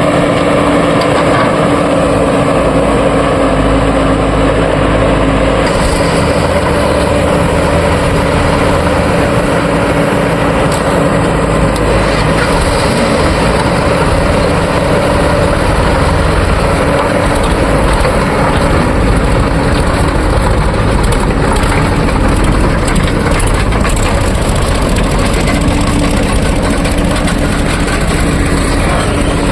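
JCB 3DX backhoe loader's diesel engine running steadily under load, with a constant low hum and some machinery clatter on top. A little more hiss and rattle joins about six seconds in.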